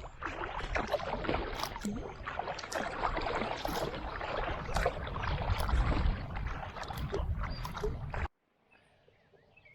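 Kayak paddling: paddle blades dipping and splashing with water dripping and sloshing, stroke after stroke. The sound cuts off abruptly a little after eight seconds in, leaving a faint background with a few small chirps.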